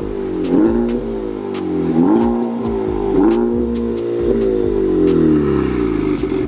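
Honda Civic Type R FK8's turbocharged 2.0-litre four-cylinder revved four times through a new AWE valveless aftermarket exhaust. Each rev climbs quickly and falls away slowly.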